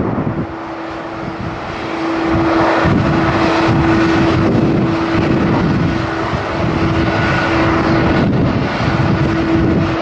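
Jet airliner engines running, a steady rushing noise with a single held hum through it, growing louder about two seconds in.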